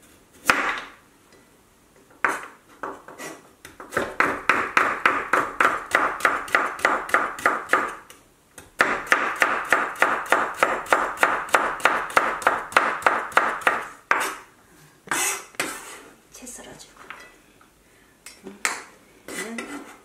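Chef's knife cutting a carrot into thin julienne strips on a wooden cutting board. A few single cuts, then two long runs of quick, even chops, about four or five a second, with a short pause between them, then a few scattered cuts near the end.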